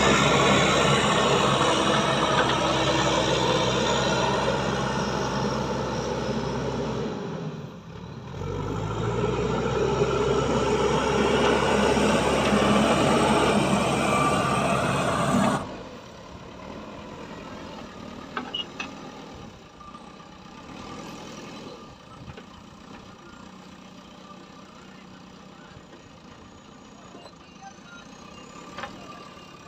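Heavy vehicle engine running loud. It dips briefly about a quarter of the way in and picks back up, then cuts off abruptly about halfway through, leaving a much quieter engine running with a few light clicks.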